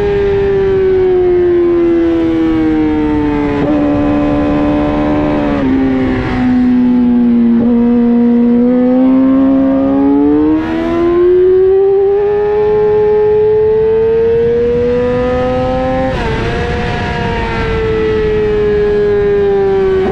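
Sport motorcycle engine heard on board at track speed, with wind rush over the microphone. The engine's pitch falls through the first several seconds as the bike slows into a corner, bottoms out, then climbs steadily as it accelerates out, and falls again near the end.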